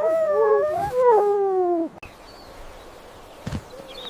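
Arctic fox giving one drawn-out, wavering whine-like call lasting about two seconds, which drops in pitch at the end and cuts off, followed by faint background with a soft thump.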